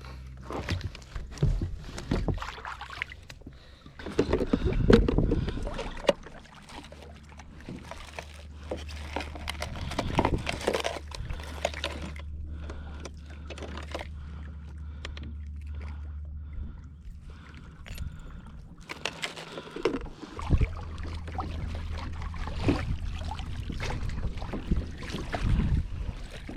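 Water sloshing and splashing against a plastic fishing kayak, with irregular knocks of gear on the hull over a steady low rumble.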